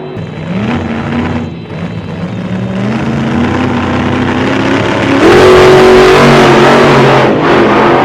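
Car engine accelerating, its pitch climbing in several steps, with loud road and wind rush building about five seconds in.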